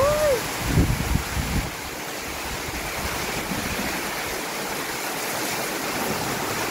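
Steady hiss of heavy rain pouring down. A short rising-and-falling voice call comes right at the start, and there are a few low rumbles about a second in.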